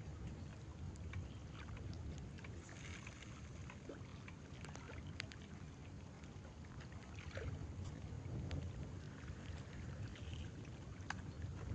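Outdoor ambience: a steady low rumble of wind on the microphone, with scattered light ticks.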